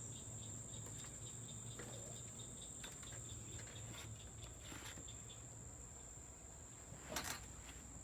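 Insects trilling steadily at a high pitch, with a second insect chirping about three times a second that fades out about five seconds in. A short sharp noise about seven seconds in stands out above them.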